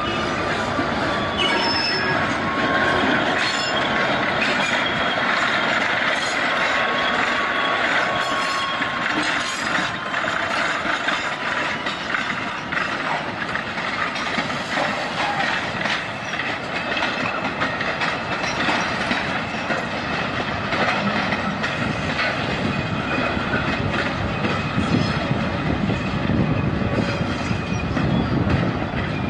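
Diesel switcher locomotive and freight cars rolling slowly, wheels squealing against the rails with clicks over the rail joints. A thin squeal falls slowly in pitch over the first dozen seconds.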